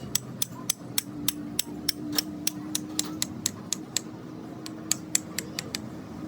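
Rapid, light hammer taps, about three to four strikes a second in a steady rhythm with a short pause about two-thirds of the way through, over a faint steady hum.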